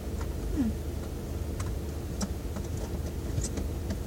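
Steady low hum of the car idling with the heater running, overlaid by scattered light clicks and clinks of hand tools (screwdrivers and pliers) being handled against the metal fan housing.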